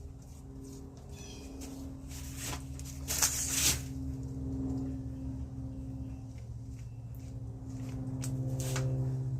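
Hands pressing and working wet concrete mix into the wire mesh of a bonsai slab: irregular scraping and rustling handling noises, loudest about three seconds in and again near the end, over a steady low hum.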